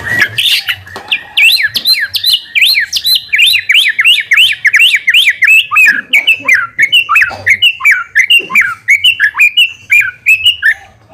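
White-rumped shama (murai batu) singing a fast, unbroken run of sharp, down-slurred whistled notes, about five a second, that stops abruptly just before the end.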